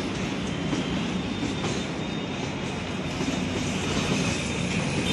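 Express train of red LHB passenger coaches rolling along the tracks: a steady rumble of wheels on rail with a few faint clicks.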